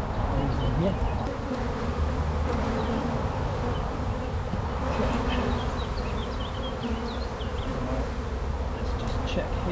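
Honey bees buzzing in large numbers around an opened hive: a steady, dense hum of many wing-beats wavering in pitch. A few short high chirps sound over it in the second half.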